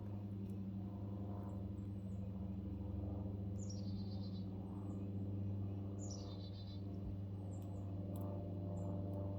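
Wild birds calling, repeating a call that slides down and breaks into a quick stuttering trill about every two and a half seconds, with short high chips in between. Under the birds runs a steady low hum.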